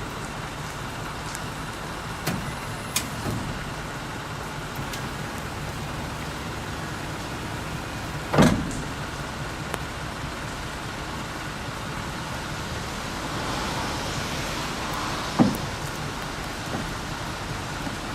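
Electric-hydraulic power gate (tail lift) on a refrigerated truck running, its pump motor humming steadily. Two loud metal clunks from the lift platform stand out, one about halfway through and one near the end.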